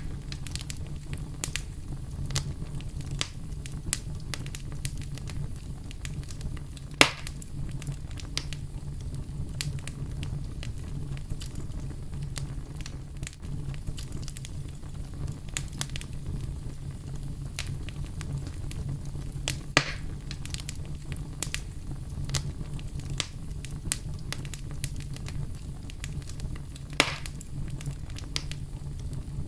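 Campfire wood burning and crackling: a constant scatter of small crackles over a steady low rumble, with three louder pops, about a quarter of the way in, two-thirds of the way in and near the end.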